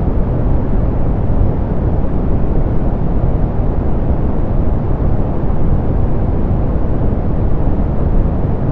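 Steady synthetic pink noise, softened so that most of it is a low, even rush with the highs rolled off. It does not change at all.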